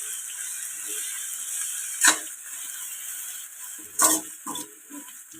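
Shallots and ginger-garlic paste frying in sesame oil in a kadai, with a steady sizzle. A spoon scrapes and knocks against the pan about two seconds in and again around four seconds in.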